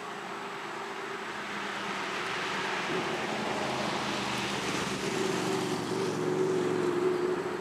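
An engine running, growing steadily louder over several seconds and dropping off near the end, over a steady rushing hiss.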